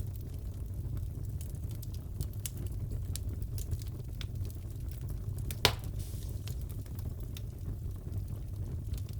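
Wood fire crackling in a fireplace: a steady low rumble of flames with scattered small pops, and one sharp, loud crack a little after halfway.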